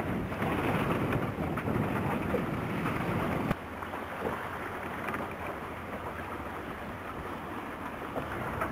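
Wind buffeting the microphone over rushing water. The low rumble drops off suddenly about three and a half seconds in, leaving a quieter, steady wash.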